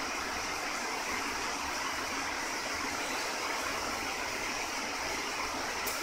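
Steady, even machinery noise of a workshop, with no clear stitching rhythm, and a couple of short sharp clicks near the end.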